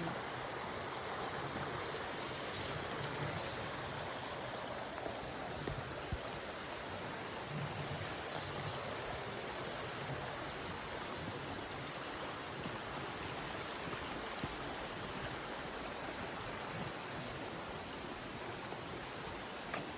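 Steady rushing of a gorge stream cascading over small waterfalls, an even wash of water noise.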